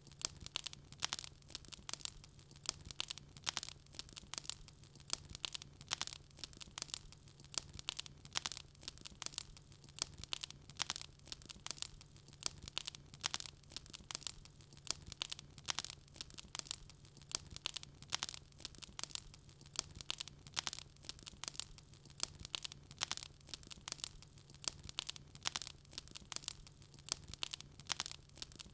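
Wood fire crackling in a fireplace: dense, irregular pops and snaps of burning logs, with a faint steady low hum underneath.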